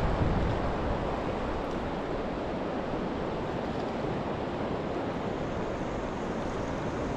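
Steady rushing of flowing river water, an even noise with no distinct splashes.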